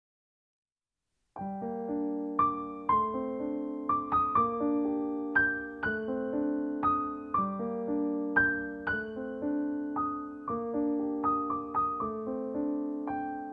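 Silence, then background keyboard music in a piano sound starts abruptly about a second and a half in. It plays a steady, repeating pattern of sustained notes.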